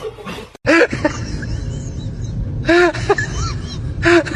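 An animal's short, arched calls, repeated four times over a steady low rumble, starting after an abrupt cut.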